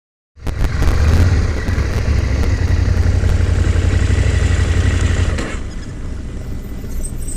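Vehicle engine running steadily, easing off to a quieter run about five and a half seconds in.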